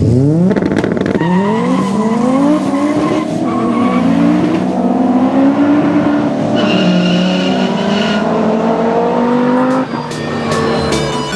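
Audi five-cylinder engine swapped into a BMW E36, revving hard under acceleration. In the first second or two its pitch climbs in quick steps that drop back at each gear change. It then holds and wavers at high revs, and cuts off suddenly about ten seconds in.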